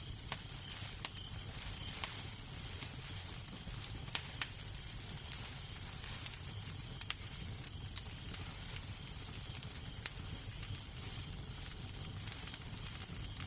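Wood fire crackling in a fireplace, with irregular sharp pops of varying loudness over a steady low rumble.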